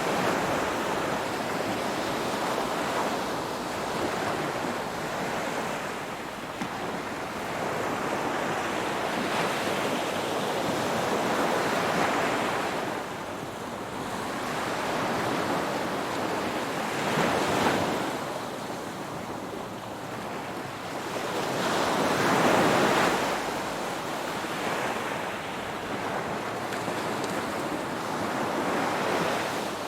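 Ocean waves breaking, the surf swelling and fading every few seconds, with the biggest breakers in the second half.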